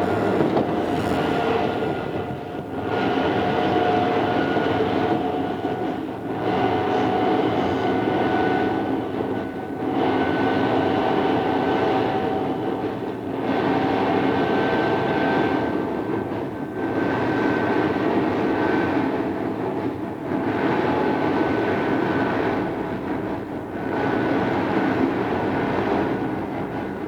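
Odakyu 2600 series electric train running, heard on board: continuous rolling noise with a steady motor whine that rises slowly in pitch. The noise dips briefly about every three and a half seconds.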